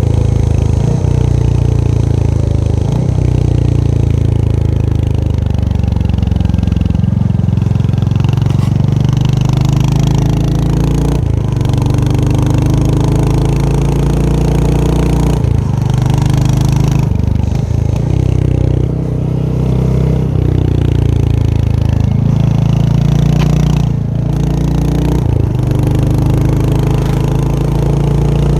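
Royal Enfield Hunter 350's 349 cc single-cylinder engine and exhaust running under way, its pitch rising and falling as the bike speeds up and slows through a series of gear changes, with brief dips at each shift.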